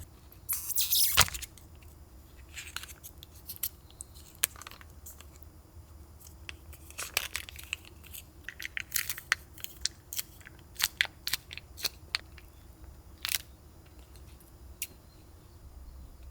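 Scattered light clicks and short rustles, with a louder rustle about a second in, over a faint low steady hum.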